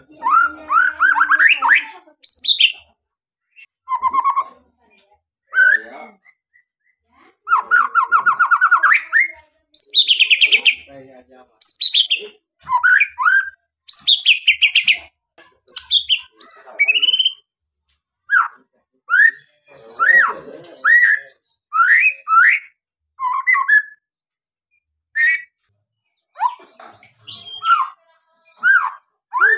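White-rumped shama (murai batu) singing a long run of loud, varied phrases: quick rising and falling whistles and rapid rattling trills, separated by short pauses.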